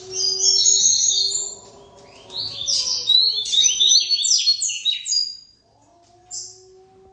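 Seedeater (papa-capim/coleiro) singing two quick phrases of rapid high chirps, the second one longer, then a single short note near the end.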